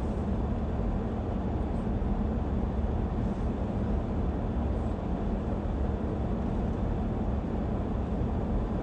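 A car running with a steady, even low rumble, unchanging throughout.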